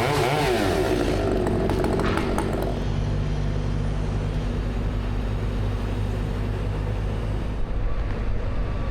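A chainsaw's revs waver and fall away in the first couple of seconds as the cut ends. After that a low, steady engine drone continues, with a few light clicks around two seconds in.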